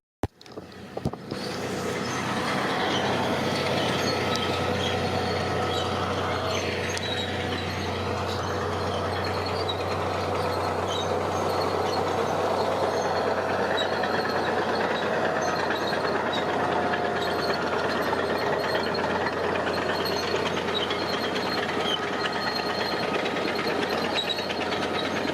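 Heavy diesel construction machinery running steadily, starting about a second in.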